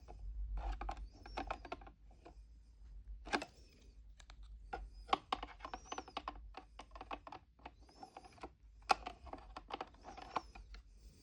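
Small plastic toy pieces, a miniature fridge's shelves and tiny items, clicking and tapping against each other in irregular runs of light clicks as they are handled and pushed into place.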